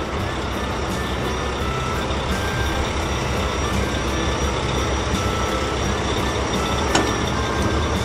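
Dump truck engine running steadily as the truck drives along, with one sharp click about seven seconds in.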